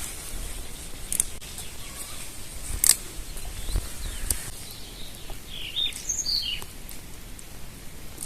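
Birds chirping briefly, a few short calls about two-thirds of the way through, over a steady hiss. Several sharp clicks or taps come earlier, the loudest about three seconds in.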